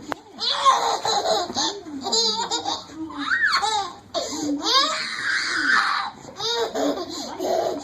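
People laughing hard in repeated bursts, with high-pitched, squealing laughs.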